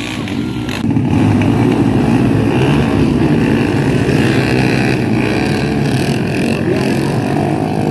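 Motocross bike engines running on the track, getting louder about a second in and staying loud.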